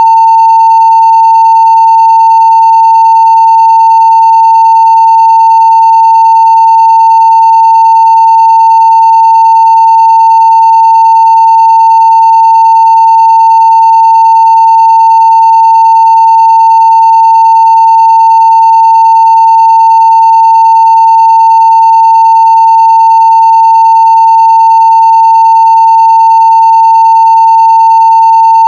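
Continuous 900 Hz sine-wave test tone at full scale (0 dB): one steady, unbroken pitch.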